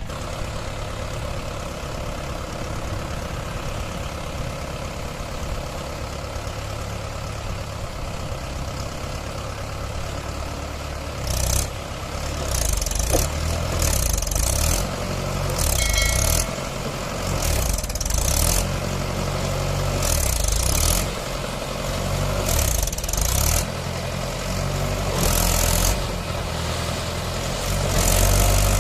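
Mahindra 575 tractor's diesel engine running steadily. From about eleven seconds in, loud surges of noise come every second or two over the engine.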